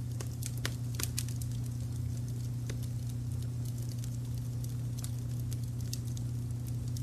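Wood fire crackling, with frequent irregular small pops and snaps, over a steady low rumble of brown noise.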